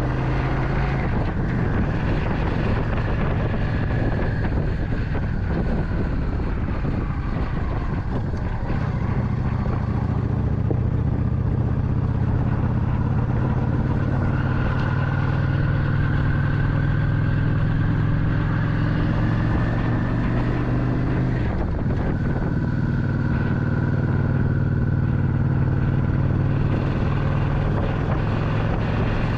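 Motorcycle engine running steadily while riding, with wind rush over it. The engine note drops briefly twice, about a second in and again about two-thirds of the way through.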